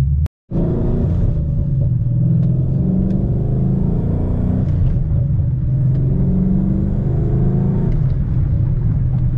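A 2011 Mustang GT's 5.0 V8 running steadily while driving, its pitch rising and easing a few times. The sound drops out completely for a split second just after the start.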